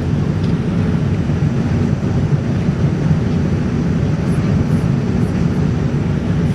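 Steady engine and airflow rumble inside the cabin of a Boeing 787-9 airliner, heard from a seat over the wing.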